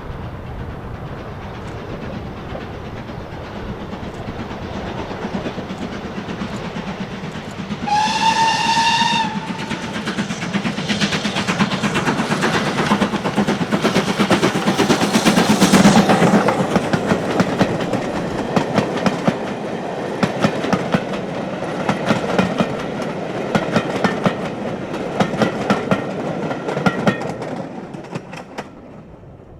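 A heritage train passing close by. It sounds one whistle about 8 seconds in, and then its wheels clack rapidly over the rail joints, getting louder to a peak about halfway before fading near the end.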